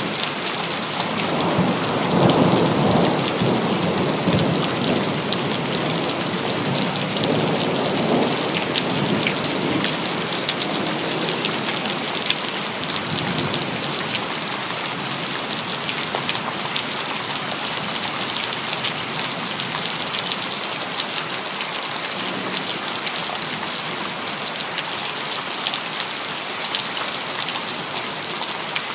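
Steady rain, with a low roll of thunder that swells in the first few seconds and dies away by about twelve seconds in.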